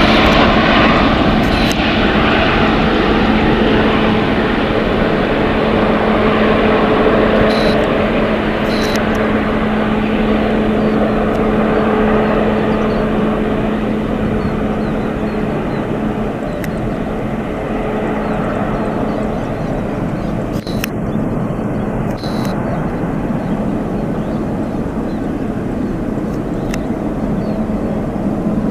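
Jet engines of an Antonov An-124 Ruslan (four D-18T turbofans) running, a loud steady rush with a steady low hum, slowly fading.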